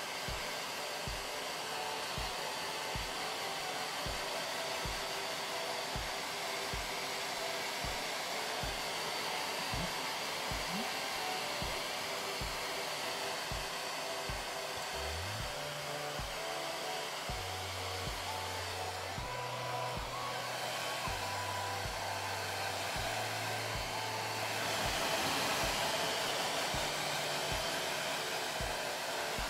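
Hair dryer blowing steadily, drying a freshly shampooed kitten, a little louder near the end. Background music with a regular low beat and bass line plays underneath.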